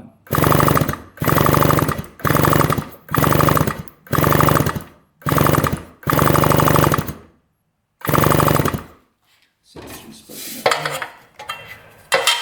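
1975 Yamaha RD200's electric starter cranking the 200cc two-stroke twin over in about eight short bursts of a second or less, during a spark check after cleaning the points. Light clicks and handling noises follow in the last few seconds.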